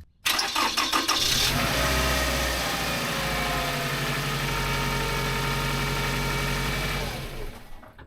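A motor or engine starts suddenly with about a second of clatter, runs with a steady hum for about six seconds, then winds down and fades out.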